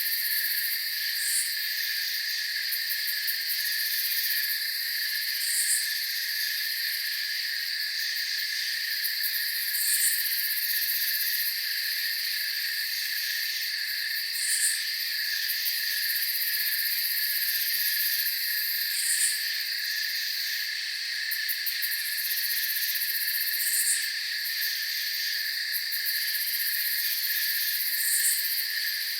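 Night chorus of crickets: a dense, steady high-pitched trilling, with a short, higher chirp repeating about every four and a half seconds.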